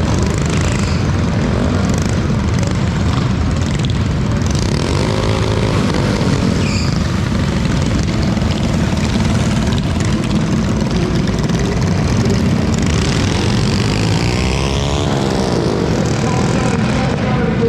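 Small mini bike engines running hard, their pitch rising and falling twice as bikes rev and pass by, over a steady engine din.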